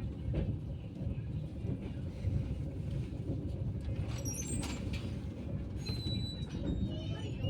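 Passenger train rolling into a station: a steady low rumble of coaches on the track, with short high-pitched squeals about four and six seconds in.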